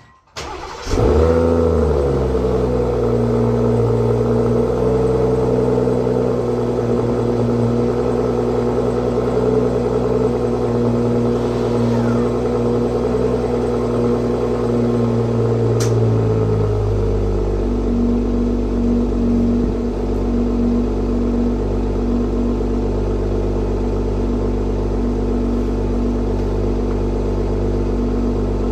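BMW M340i's 3.0-litre B58 turbocharged inline-six cold-starting: it cranks, catches and flares, then runs at a raised cold idle. About 17 seconds in, the idle steps down to a lower, steady note.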